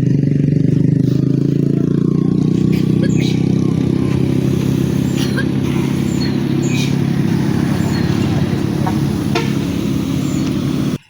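A vehicle engine running steadily at a constant pace, then cutting off suddenly near the end.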